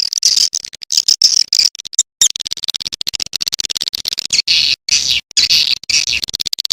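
Recorded swiftlet calls played as a lure track for a swiftlet house: dense, rapid high-pitched chittering in quick pulses, broken by a few short silent gaps.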